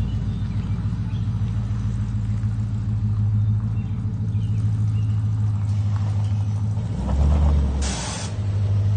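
Engine of a rebuilt 1952 Chevrolet pickup truck running steadily, with a deeper swell in its rumble about seven seconds in and a short hiss near the end.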